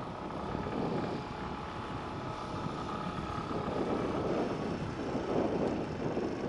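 Motorcycle running along the road, a steady engine-and-road noise with wind on the microphone.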